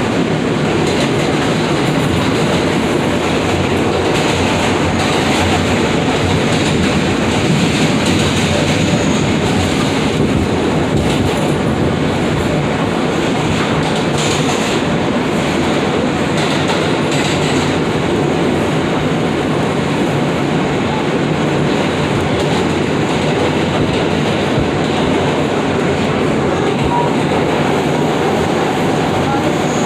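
New York City subway F train running between stations, heard from inside the car: a steady, unbroken noise of wheels on rails.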